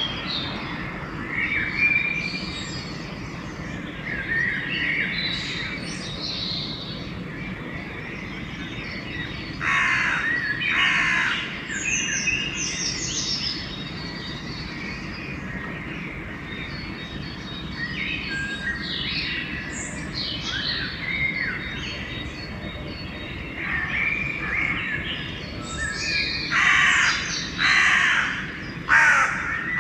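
Pre-dawn bird chorus: several songbirds chirping and singing over one another throughout. Crows caw harshly about ten seconds in and several times in a row near the end.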